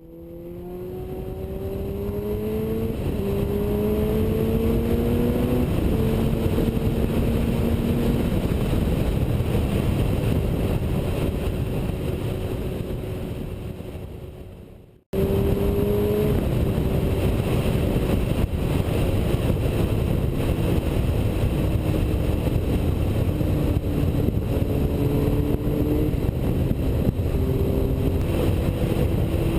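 Suzuki GSX-R1000 inline-four engine accelerating through a series of clutchless upshifts: the engine note climbs in pitch, then drops sharply at each shift, over a loud steady rush of wind. The sound fades out about halfway through, then resumes at speed with a few more shifts and a steadier engine note.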